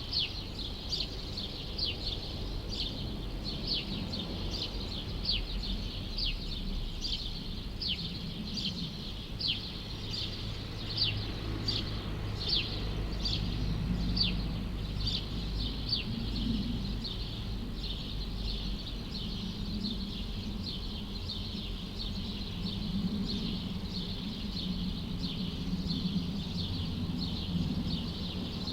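A small bird chirping over and over, short falling chirps about two a second, growing fainter near the end, over a low steady hum of city background noise.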